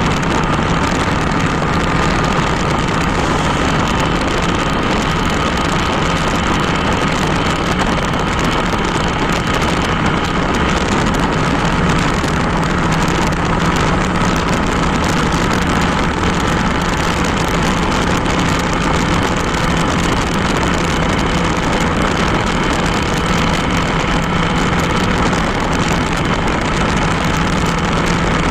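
Motorcycle engine running at a steady speed during a ride, a constant drone with road noise and no change in pace.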